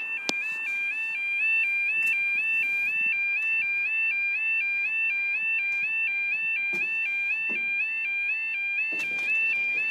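Level crossing warning alarm sounding in night mode: a rapid two-tone warble alternating steadily a few times a second. A sharp click comes just after the start.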